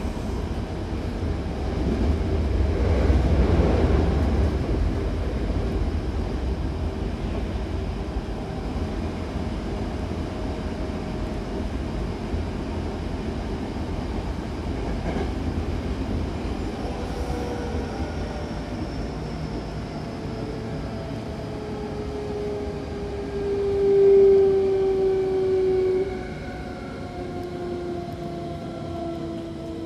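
Hankyu electric train heard from inside the car while running: a steady rumble of wheels on rail, louder a few seconds in. From about halfway, a whine from the drive slides steadily down in pitch as the train slows.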